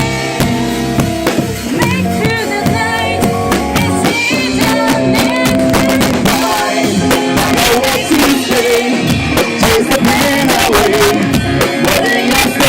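A live rock band playing a song, with drums keeping the beat under sustained instrumental notes. The recording sounds scratchy.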